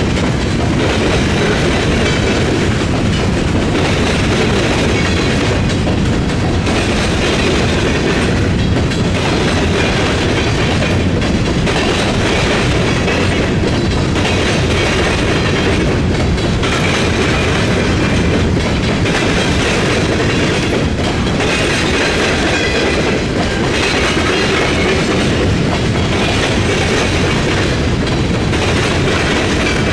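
Freight train rolling past at close range, its cars' wheels clattering steadily over the track.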